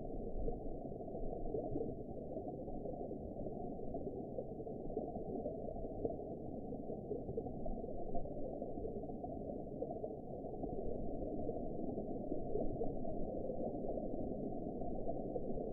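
Underwater ambience: a steady, muffled, low rushing and gurgling of water, with nothing above a low rumble.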